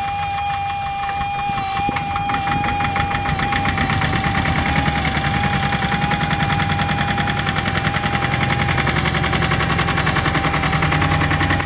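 Porsche AP18 tractor's air-cooled diesel engine running, with a rapid, even firing beat and a steady high-pitched whine over it.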